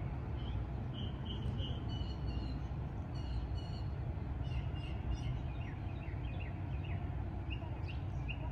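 Songbirds chirping in short, repeated notes over a steady low rumble.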